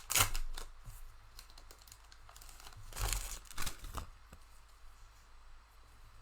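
Wrapper of a trading-card pack being torn open and crinkled by hand, in rustling bursts loudest near the start and again about three seconds in.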